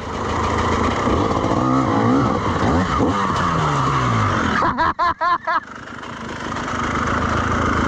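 Two-stroke dirt bike engine revving, its pitch sliding down and back up several times over a steady rushing noise, with a quick run of sharp revs about five seconds in.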